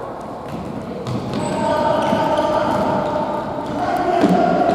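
Futsal game sound: players' and spectators' shouts and calls, with scattered thuds of the ball and feet on the court.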